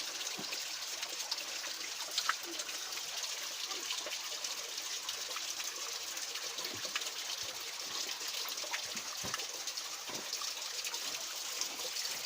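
Stream water trickling and running steadily, with scattered small clicks and taps.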